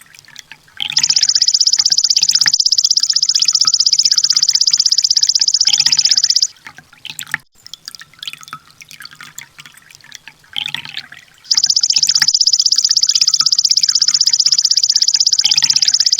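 Sunbird (kolibri ninja) singing: a long, very rapid high trill lasting about five seconds, starting about a second in, then a few short chirps, and a second long trill starting around eleven seconds in.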